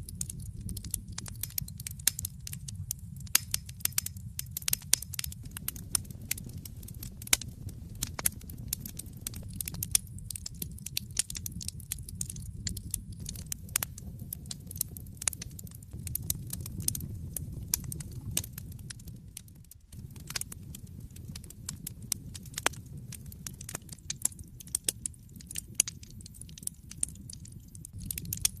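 Wood fire crackling in a fireplace: a dense run of sharp pops and snaps over a low, steady rumble of the flames.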